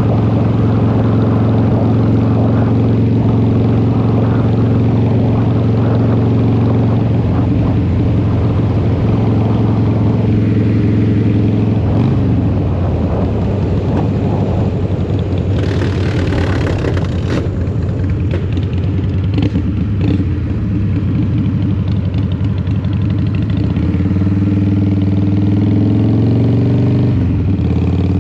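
A 2003 Harley-Davidson Fat Boy's Twin Cam 88 V-twin through a Vance & Hines exhaust, heard from the rider's seat while riding. It runs at a steady cruise, then about twelve seconds in the engine note falls as the rider eases off and it rumbles rougher off the throttle. Near the end the pitch climbs again as it pulls back up to speed.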